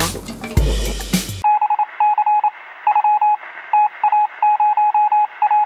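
Electronic beeping on one steady pitch, keyed on and off in quick short and longer pulses like Morse code, with a thin, narrow sound. Before it, about the first second and a half holds background music with a bass line and a voice.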